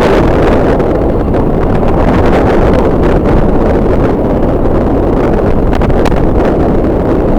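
Strong wind buffeting the microphone: a loud, steady rumble with fluttering gusts.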